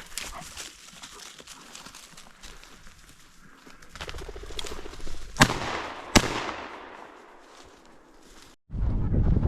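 Two shotgun shots about a second apart, a little past halfway, each trailing off in a short echo. Near the end loud wind buffets the microphone.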